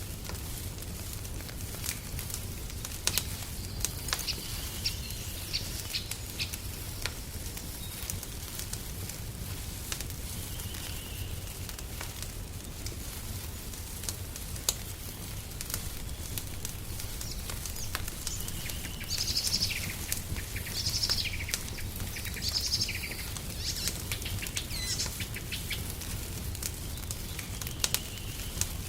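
Wood fire in a fireplace crackling with frequent sharp pops over a low steady rumble. Small songbirds chirp in short phrases, a few early and more often in the second half.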